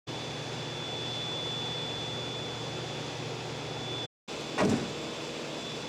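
Steady background hum with a faint, thin high-pitched whine, broken by a brief dead silence about four seconds in and a short faint sweep just after it.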